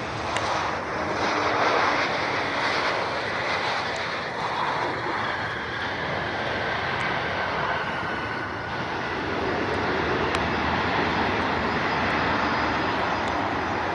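Jet airliner engines running, a steady rush of engine noise that neither rises nor falls much.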